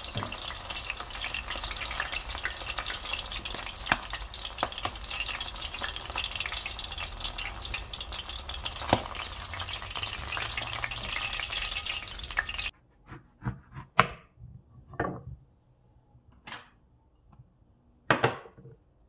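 Battered hanchi (swordtip squid) pieces frying in hot oil: a steady sizzle with scattered sharp pops. The sizzle cuts off suddenly about two-thirds of the way through, leaving a few short, separate clicks or taps.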